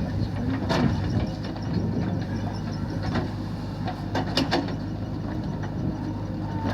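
Tractor diesel engine running steadily, with a few sharp knocks, two of them close together about four seconds in.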